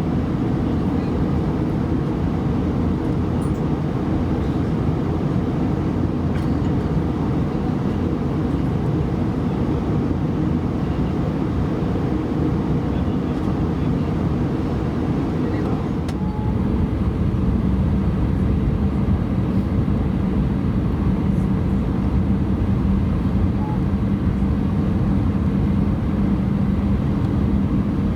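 Airbus A320 cabin noise: a steady rumble of engines and airflow. About 16 seconds in it grows slightly louder and a steady hum comes in, as engine thrust changes.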